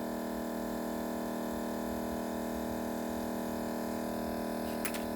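Steady electrical hum made up of several low steady tones, with one faint click near the end.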